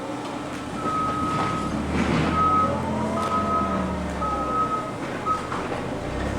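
A backup alarm beeping about once a second at one high pitch, five beeps in a row, over the low rumble of running machinery.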